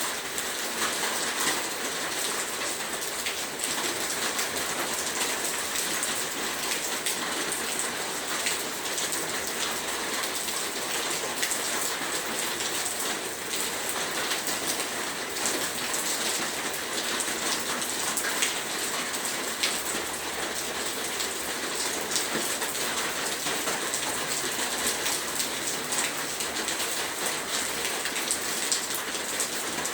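Heavy rain falling steadily, a dense hiss with many individual drops pattering on a surface.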